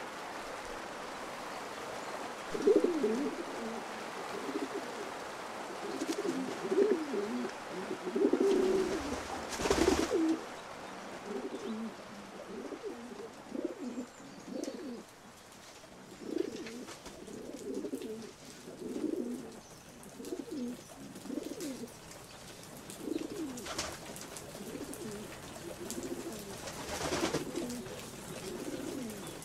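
Pigeons cooing, a long run of low coos repeating every second or so, with a few brief rushes of noise in between.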